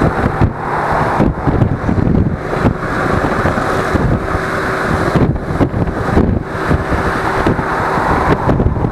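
Wind buffeting an action camera's microphone on a moving Suzuki V-Strom 250, in uneven gusts, with the motorcycle's parallel-twin engine running steadily underneath.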